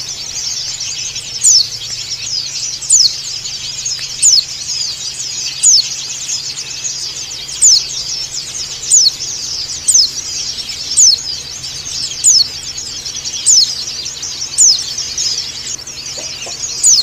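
White-eye (pleci, Zosterops) calling: a loud, sharp, falling call repeated about every second and a half over continuous high twittering.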